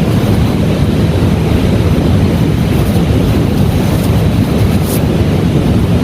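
Heavy rain falling steadily, a loud continuous rush of noise that is deepest in the low range.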